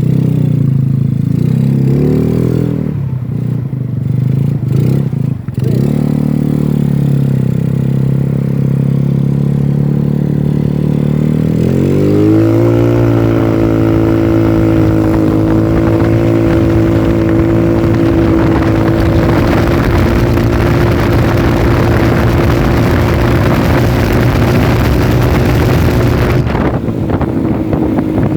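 Yamaha Mio Smile scooter's single-cylinder four-stroke engine running through a Black Devil aftermarket exhaust with a 38 mm inlet. It is blipped a few times, settles to a steady low note, then about twelve seconds in climbs to a higher engine speed and holds there, with a rushing hiss over it until near the end.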